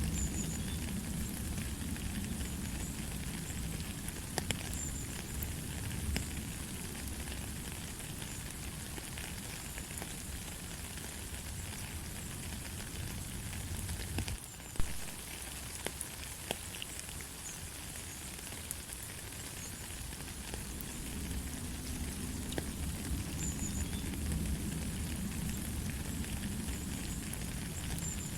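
Steady light rain: an even hiss of falling rain with scattered drop ticks, and one sharper tick about halfway through.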